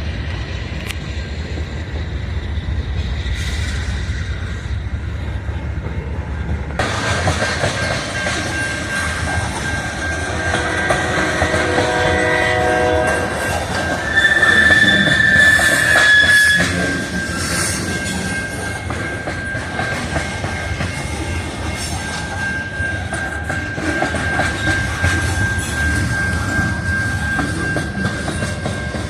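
Passing train with diesel locomotive rumble. About ten seconds in, a locomotive horn sounds a chord of several notes for a few seconds. A high steady wheel squeal runs through most of the second half and is loudest for about two seconds near the middle.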